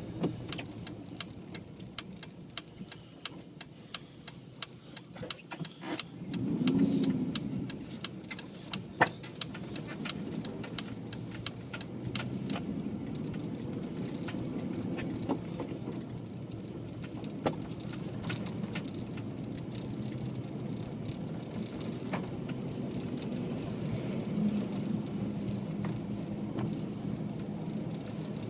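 Jeep driving through snow: steady engine and tyre rumble with scattered ticks and rattles, a brief louder swell about seven seconds in and a sharp knock about nine seconds in.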